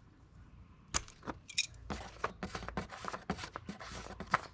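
Pliers gripping and twisting a plastic engine oil filler cap loose: a sharp click about a second in, then a run of clicks and scrapes with a brief squeak.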